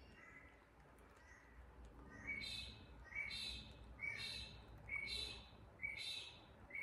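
A bird calling over and over: faint calls at first, then from about two seconds in five louder harsh calls, a little under a second apart.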